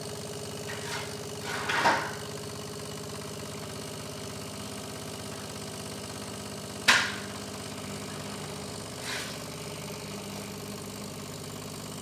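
DeLonghi Dinamica coffee machine's pump humming steadily as it pushes clean water through during the descaling rinse cycle. A few soft knocks come near the start, a sharp click comes about seven seconds in, and a fainter one follows near nine seconds.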